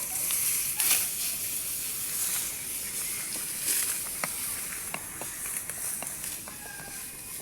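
Rice stalks rustling as they are cut and gathered by hand, with a couple of louder swishes and scattered light clicks over a steady high hiss.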